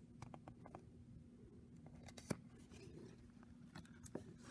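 Near silence: faint room tone with a few faint short clicks, the sharpest about two seconds in.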